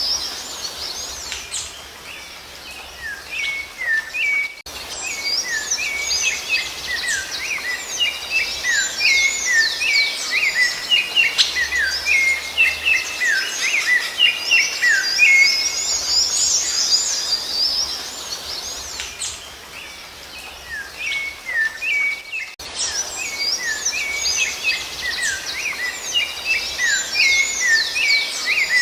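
Rufous-bellied thrush (sabiá-laranjeira) singing: a dense, continuous stream of quick whistled and chirped notes, sliding up and down in pitch. The song breaks off abruptly for an instant twice.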